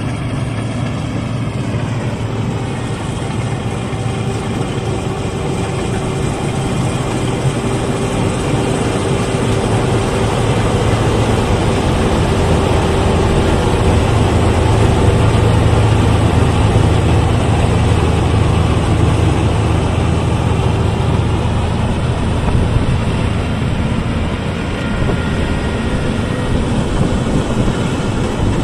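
Rice combine harvester's engine running steadily, growing louder through the middle stretch and easing off again toward the end.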